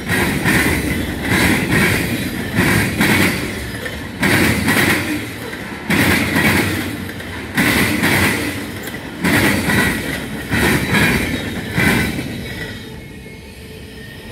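Freight cars' steel wheels pounding over a railroad diamond crossing in loud clanking pairs, roughly one group every second and a half, with some wheel squeal and ringing rail. The last car passes about twelve seconds in and the clanking fades away.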